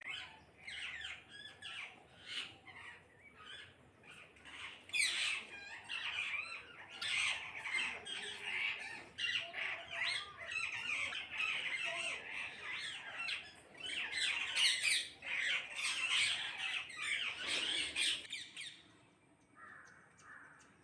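Several parrots squawking and chirping, with many harsh calls overlapping, dying down near the end.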